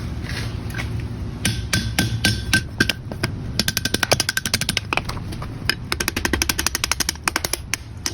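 Rawhide mallet tapping a hot twisted square iron bar around the horn of an anvil to bend the candy-cane curve: a long series of light blows starting about a second and a half in, some in quick runs of several a second, the iron giving a short metallic ring. A steady low hum runs underneath.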